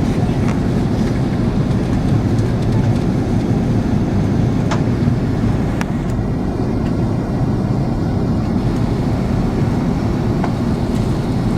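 Steady in-flight cabin noise of an Airbus A330 airliner: a constant low rumble of engines and rushing air during the descent, with a few faint clicks.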